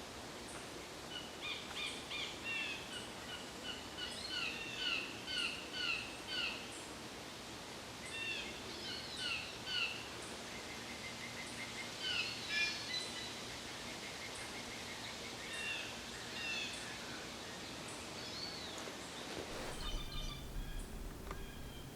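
Small birds calling, a run of short downslurred chirps repeated in quick groups, with a fast, even trill in the middle, over steady outdoor background noise.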